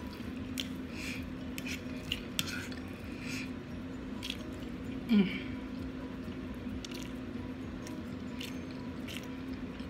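A person chewing a mouthful of rice and peas close to the microphone: soft wet squishes and small mouth clicks scattered throughout. About five seconds in comes a short, low vocal sound that falls in pitch. A steady low hum runs underneath.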